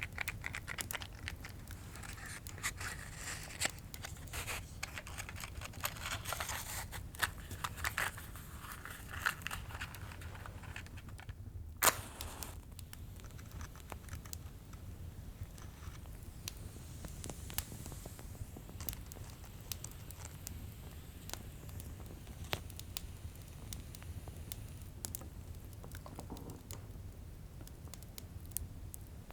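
Crackling fire with scattered small pops over a low steady hum, with rustling and scraping handling sounds from lighting candles in the first ten seconds and one sharp, loud click about twelve seconds in.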